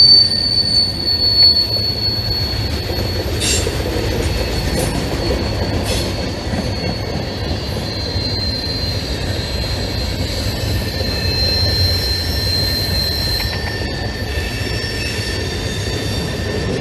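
Freight cars of a CSX manifest train rolling past, with a steady rumble of wheels on rail and a high-pitched wheel squeal that fades, comes back, and gives way to a lower squeal tone near the end. Two sharp knocks sound a few seconds in.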